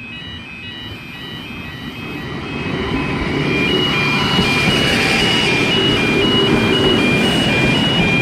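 Endeavour diesel railcar set running at the platform, its engine and rail noise building up from about two seconds in and then holding steady. Through it an electronic warning alternates steadily between two high beeping tones.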